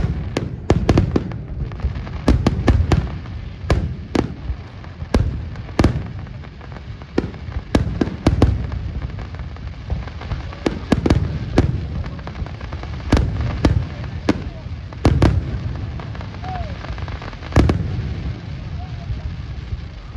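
Fireworks bursting: many sharp bangs and cracks, some coming in quick clusters, over a low rumble of distant booms.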